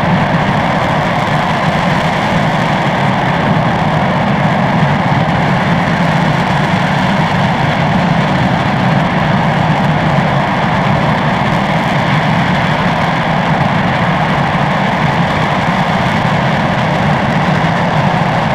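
RS-25 liquid-hydrogen/liquid-oxygen rocket engine firing at steady thrust on a test stand: a loud, continuous rushing noise that holds unchanged throughout.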